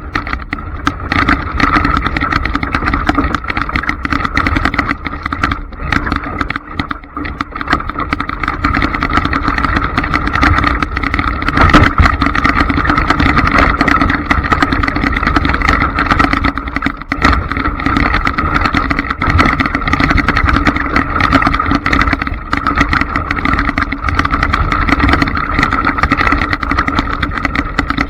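Traxxas Slash RC trucks running: a steady motor and drivetrain whine over rough rattling and many small knocks from the chassis and tyres.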